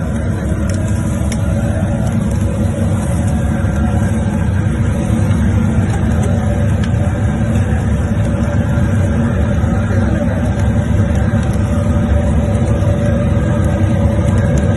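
Vehicle engine running steadily with a low, loud drone, with no clear rise or fall in pitch.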